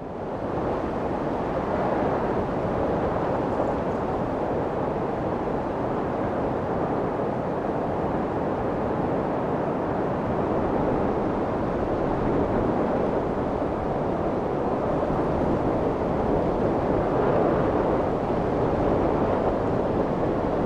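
Steady wind noise, an even rushing sound that swells and eases only slightly; it fades back in over the first second after a brief gap.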